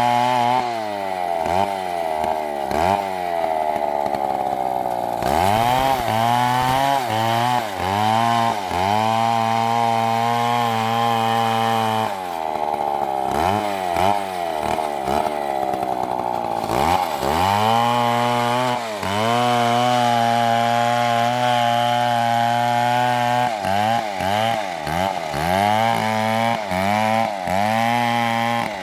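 Big MS720 chainsaw running at high speed, its engine pitch repeatedly dropping sharply and climbing back as the throttle is eased and opened again, with stretches of several seconds held steady at full revs in the cut. The quick dips come in clusters near the start and near the end.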